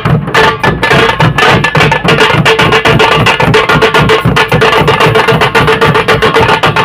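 Fast, continuous drumming of the Muharram procession 'kodi' rhythm on hand-beaten drums, with rapid strikes that grow denser about two seconds in over a steady ringing drum tone.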